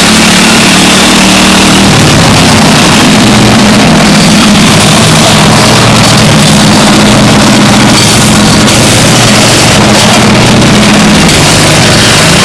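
Tractor engine running loud and steady under throttle, its pitch shifting down and back up a few times, with a heavy hiss over it.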